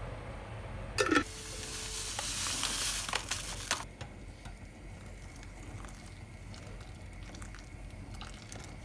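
Food sizzling in hot oil. A sharp knock about a second in is followed by a loud sizzling hiss for about three seconds that cuts off abruptly, then faint clicks.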